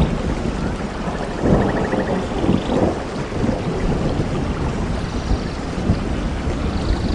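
Steady heavy rain, with rumbles of thunder swelling about one and a half and two and a half seconds in.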